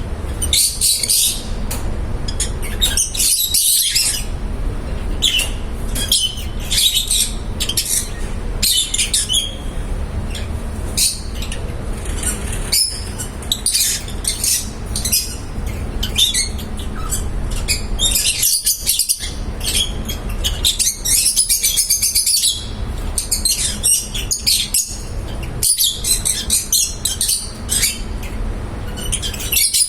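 A flock of pet lovebirds chirping and chattering in quick high bursts that come again and again, over a steady low background hum.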